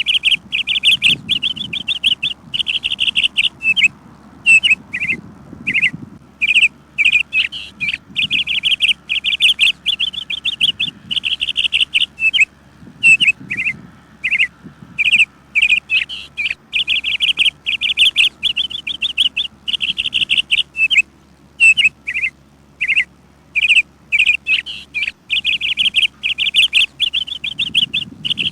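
Small birds chirping without pause: rapid trilled runs alternate with short single chirps, separated by brief gaps.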